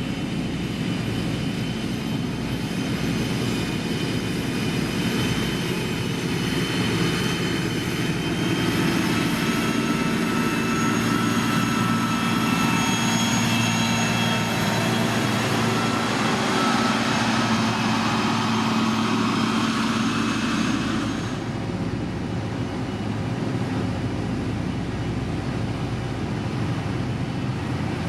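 Heavy diesel road-construction machinery running steadily, an engine hum with a high whine over it; the whine cuts off suddenly about three-quarters of the way through while the engine carries on.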